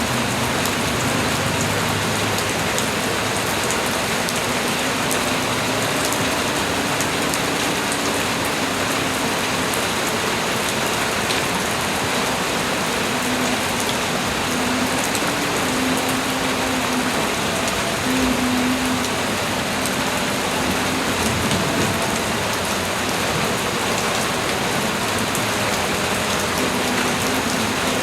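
Steady light rain, an even hiss of many drops falling on surfaces.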